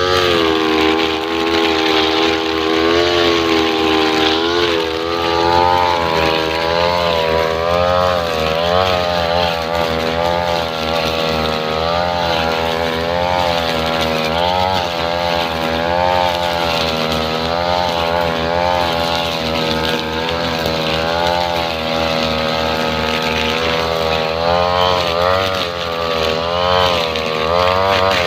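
Two-stroke 328 brush cutter engine running with a trimmer-line head cutting grass. Its pitch keeps rising and dipping as the load on the line changes.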